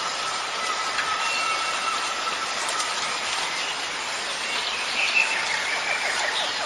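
Steady rain hiss, with a thin held tone over it in the first half and a few short high chirps about five seconds in.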